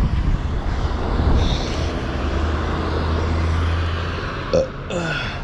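Road traffic: a motor vehicle's engine runs close by as a steady low drone through the middle, over rumbling road noise. A short sharp sound comes near the end, followed by a falling tone.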